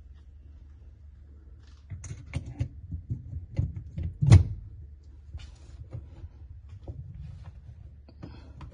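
A few sharp clicks and knocks of metal tooling parts being handled and fitted together, the loudest about four seconds in, over a low steady hum.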